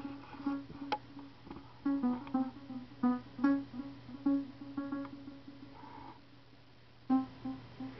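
Short plucked-string notes played by music software, triggered one after another by hand movement tracked through a webcam: several notes a second, each fading quickly, with the pitch stepping between a few notes as the hand moves left and right. The notes stop briefly about six seconds in, then resume.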